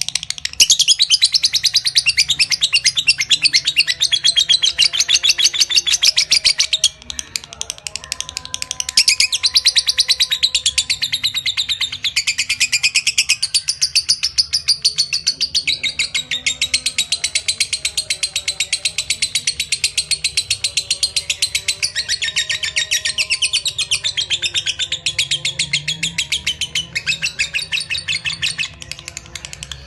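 Lovebird singing its ngekek: a long, unbroken stream of rapid, high, shrill chirps, dipping briefly about seven seconds in before running on.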